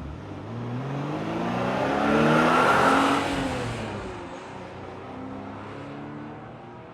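A car engine speeding up: its pitch and loudness rise to a peak about three seconds in, then fall away to a quieter steady drone, like a car driving past.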